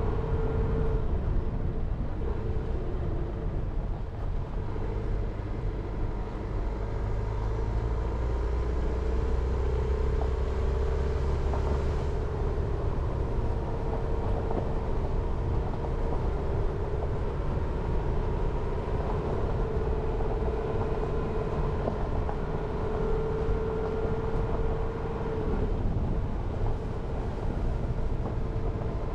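Jeep Renegade driving along a mountain forest road: steady engine and tyre rumble with a humming tone that wavers up and down. The low rumble is heavier for a few seconds and eases about twelve seconds in.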